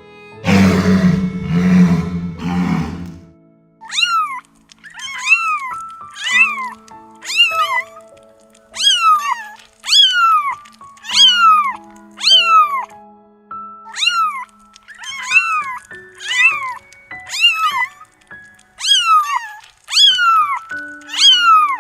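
A low, rough growl for the first three seconds, then a kitten meowing over and over, about one high call a second, each rising then falling in pitch, over background music with held notes.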